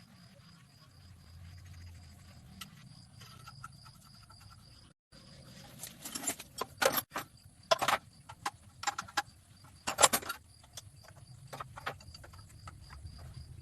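A run of sharp metal clinks and knocks about halfway through, like tools and small engine parts being handled and set down, over a low steady hum.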